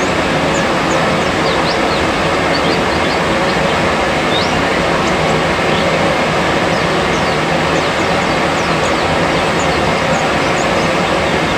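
A loud, steady rushing noise with many short, faint, high chirps of white-eyes scattered over it: a therapy recording for untrained white-eyes (pleci).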